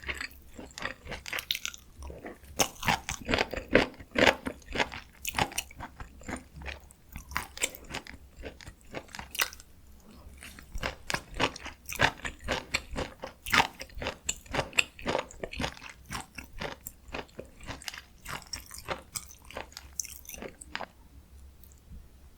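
Close-miked chewing and biting of dakgalbi, spicy stir-fried chicken: a rapid, irregular run of wet, crunchy mouth sounds that tails off near the end.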